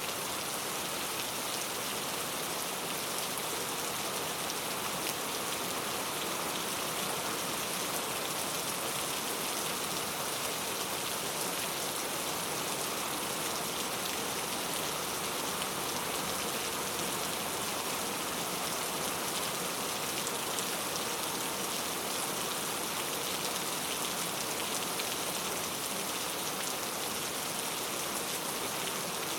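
Steady rainfall, an even hiss of many drops hitting a surface, with no change in strength.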